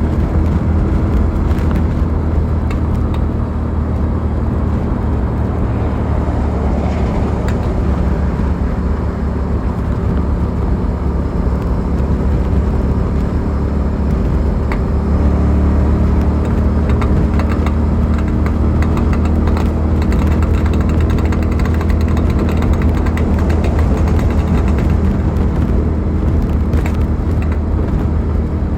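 Suzuki SV650's V-twin engine running steadily while the motorcycle is ridden, with wind noise on the mount. The engine note steps up about halfway through as it pulls harder.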